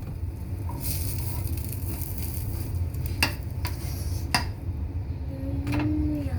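Egg-dipped bread sizzling in a frying pan, with three sharp clinks of a utensil or plate between about three and four and a half seconds in, and a short low hum near the end.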